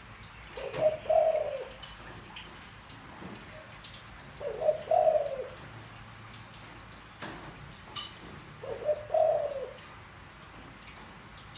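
Spotted dove cooing in a deep voice: three low phrases of about a second each, one roughly every four seconds.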